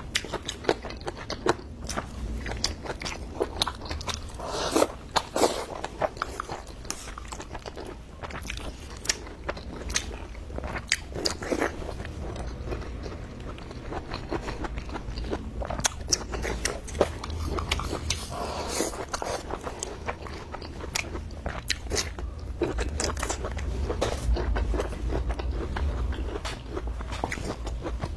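A person eating close to the microphone: repeated biting and chewing with crisp crunches and wet mouth clicks.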